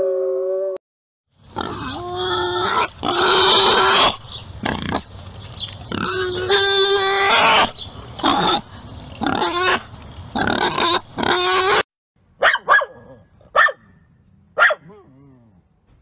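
A wolf's howl cuts off just under a second in. Then a wild boar grunts and squeals in a long run of loud calls. Near the end, a dog gives a few short, sharp barks.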